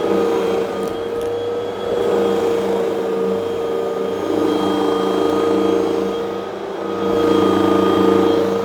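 Vacuum cleaner running with a steady motor hum under the rush of suction air, its loudness swelling and easing as it is worked over the floor.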